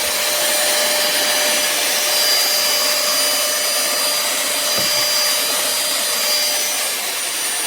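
Cordless handheld vacuum cleaner running steadily, its small motor giving a high whine over a rush of air. Near the end the whine begins to fall as the motor winds down.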